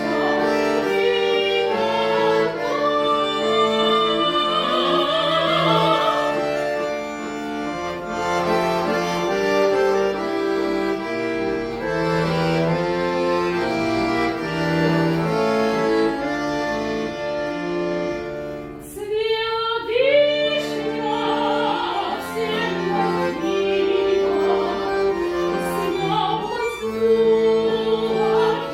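A trained solo voice singing a Russian folk song in classical style, with sustained notes and vibrato, accompanied by bayan (button accordion). There is a short break between phrases about 19 s in.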